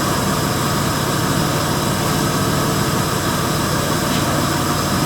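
1999 Dodge Avenger's 2.5-litre V6 running steadily, with its crankshaft position sensor air gap corrected so that it no longer misfires.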